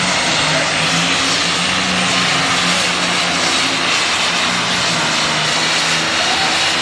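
Super stock pulling tractor's turbocharged diesel engine running hard under load, a loud, steady engine note with little change in pitch.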